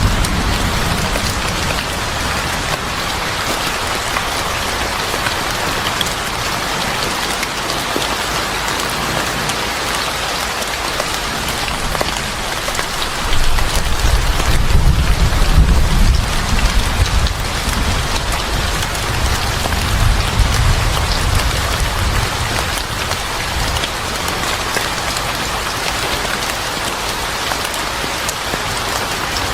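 Steady rain falling, with deep rumbles of thunder rolling in about halfway through.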